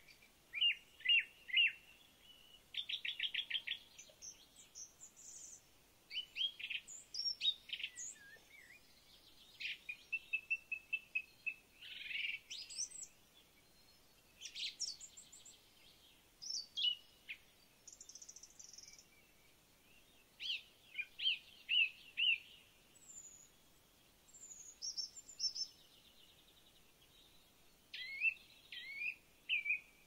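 Songbirds singing: short, high-pitched phrases of quick chirps and trills, one after another with brief pauses between them.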